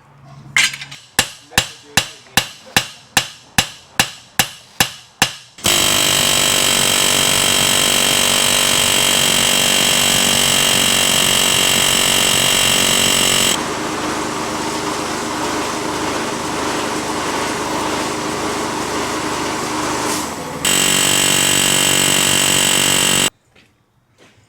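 About fifteen hammer blows on steel at an even pace, roughly three a second, while working the frozen keeper ring and top gland of a hydraulic cylinder. Then a loud power tool runs steadily for about 18 seconds, drops in level partway through, comes back up, and cuts off suddenly near the end.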